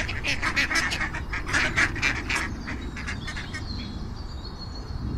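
Duck quacking in a rapid run of short calls that stops about two and a half seconds in.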